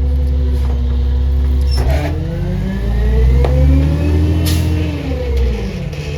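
CNG Peterbilt garbage truck's engine running steadily, then revving up in pitch for a couple of seconds and easing back down. A few short knocks and a brief hiss are heard over it.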